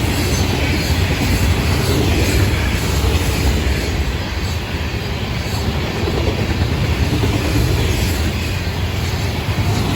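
Florida East Coast Railway freight train rolling past, a steady, loud noise of steel wheels on rail.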